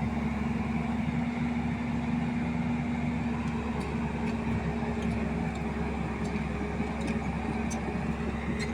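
Heavy diesel engine running steadily, a constant hum, with a few faint clicks in the second half.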